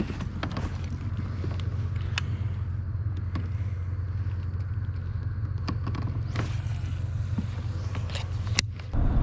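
A motor running with a steady low hum, with scattered clicks and knocks over it. The hum grows louder and heavier near the end.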